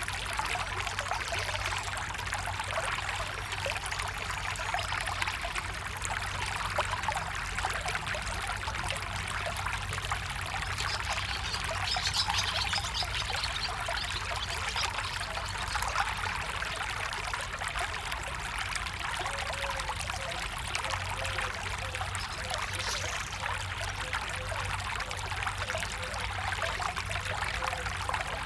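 Stream water trickling and splashing steadily.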